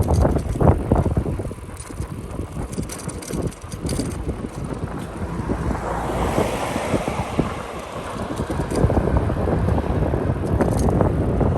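Wind buffeting the microphone over the rumble of a bicycle ride. A hiss swells and fades about six seconds in.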